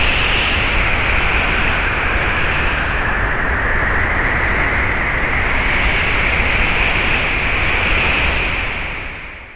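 Wind blowing as a steady rushing hiss that slowly swells and eases, fading out near the end.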